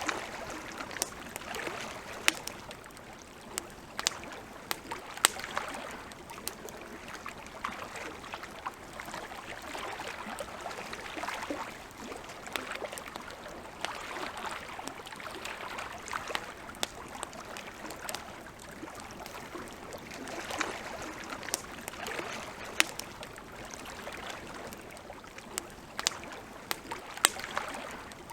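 Wood campfire crackling, with frequent irregular sharp pops and snaps over a soft hiss that slowly swells and fades.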